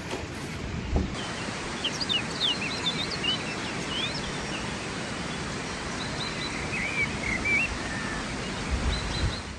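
Small birds chirping in quick, high calls over a steady rush of outdoor wind noise. The birds begin about a second and a half in.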